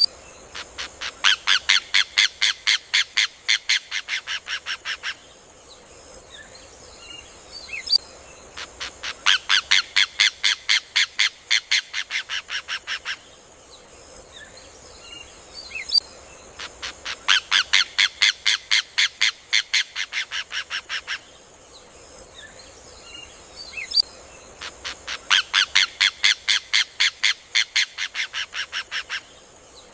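Rufous hornero (João de Barro) singing: four bursts of rapid, loud, evenly spaced notes, each lasting about four seconds and fading a little toward its end, coming every eight seconds, with faint chirps of other birds between them.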